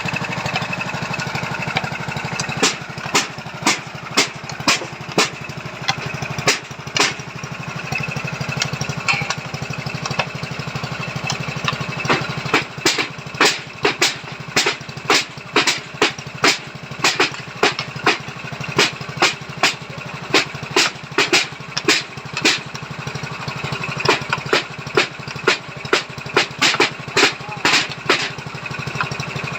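Small engine of a foundation-drilling machine running steadily, with a string of sharp knocks, about two a second through the middle stretch.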